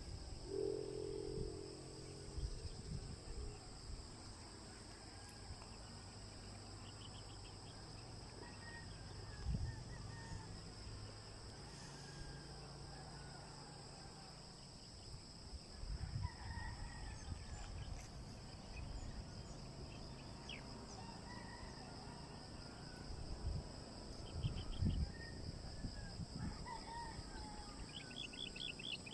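Rural outdoor ambience: a steady high-pitched insect drone with scattered bird calls, among them a rooster crowing. Occasional low bumps, loudest around 10, 16 and 25 seconds in.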